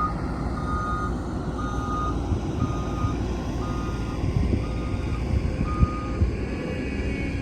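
Reversing alarm on a heavy construction vehicle beeping about once a second over the low rumble of a diesel engine; the beeping stops about six seconds in. A few clunks sound near the end.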